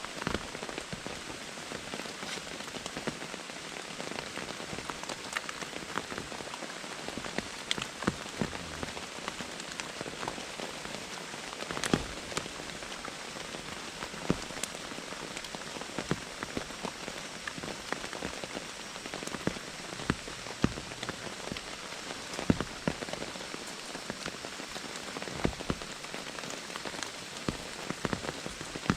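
Heavy rain falling steadily in a tropical rainforest, with many sharp separate drop impacts ticking through the steady hiss.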